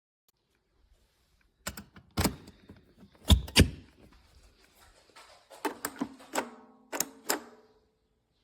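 A series of sharp clicks and knocks, about a dozen, the loudest two close together in the middle, with a faint ringing tone under the later ones.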